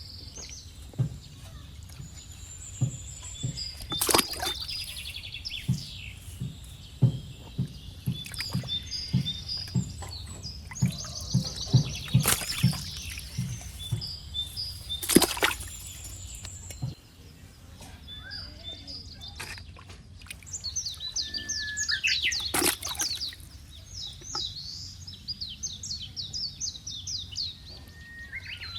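Small birds chirping in quick repeated trills throughout, over a steady low hum. A few loud, sharp knocks break through, at about 4, 12, 15 and 22 seconds in.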